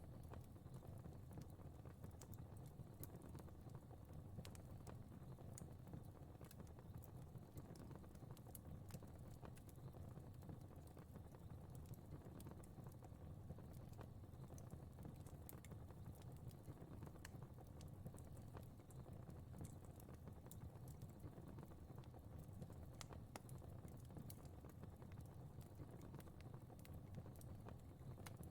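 Faint fire crackling: scattered sharp pops and snaps at irregular intervals over a soft, steady low rumble of flames.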